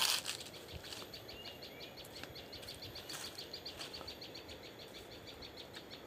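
A bird chirping in a rapid, even series of short high ticks, about six a second, after a sharp click at the very start.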